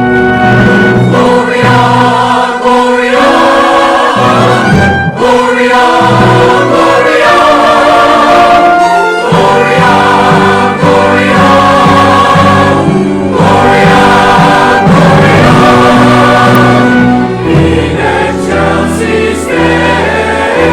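A choir singing loudly with orchestral accompaniment: full sustained chords that change every second or so, with short breaths in the sound about five and nine seconds in.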